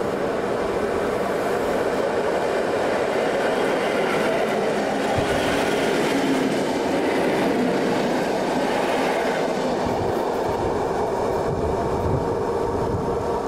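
Passenger electric multiple unit passing close by on the track: a steady rumble and wheel-on-rail noise, loudest as the cars go past, thinning near the end as the last car passes.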